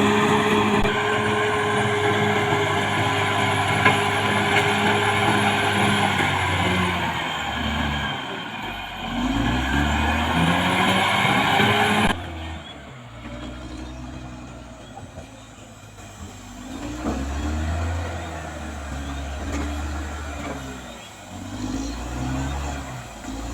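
Caterpillar D6R XL bulldozer's diesel engine working under load, its pitch rising and falling as it pushes, with a thin high whine above it. About halfway through the sound drops suddenly to a quieter level, and the engine goes on swelling and easing.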